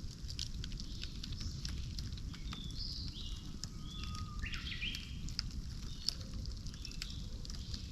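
Campfire crackling, with many sharp pops over a low steady rush. Birds chirp in the background, several short calls coming between about three and five and a half seconds in.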